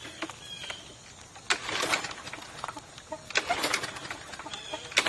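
Birds chirping, with three louder rough, hissing noises of under a second each, spaced about a second and a half apart.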